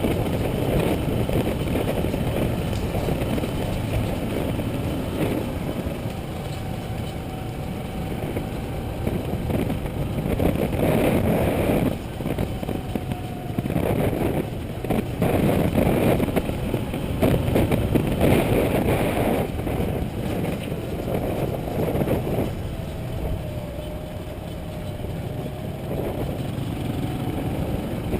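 Motorcycle running along a forest road, its engine note rising and falling with the throttle under a heavy rumble of wind on the microphone.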